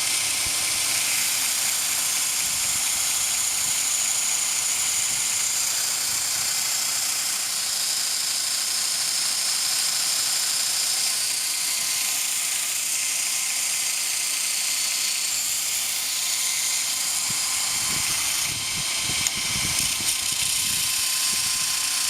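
2x72 belt grinder, driven by a 3,480 rpm motor, grinding a piece of 8 mm flat bar: a steady grinding noise with a couple of light knocks near the end.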